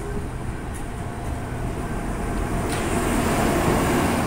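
Queensland Rail tilt train rolling past along the platform with a steady rumble of carriages on the rails. About three seconds in, the diesel power car draws level and the sound grows louder.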